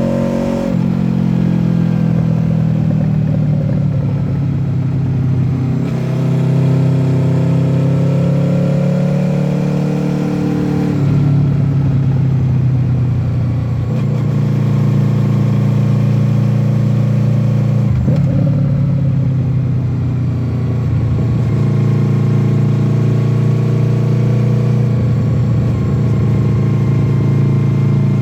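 Honda VFR800F's V4 engine, fitted with an SC-Project exhaust, pulling hard between bends: the note climbs in pitch in several long pulls and drops back each time the rider shifts or rolls off the throttle.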